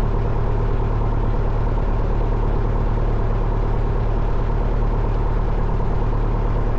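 1972 Cessna Skyhawk's four-cylinder Lycoming engine and propeller idling steadily on the ground before taxi.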